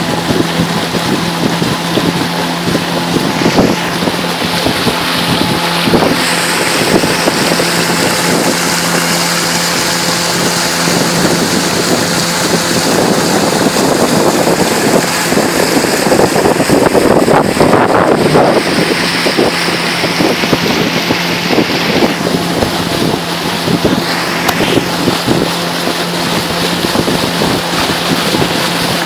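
Motorboat engine running steadily under way, with the rush of water and wind buffeting the microphone. The water and wind noise swells for a few seconds about halfway through.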